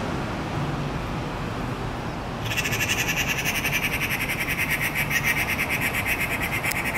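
Bird calling in a fast, even run of high chattering notes, starting about two and a half seconds in.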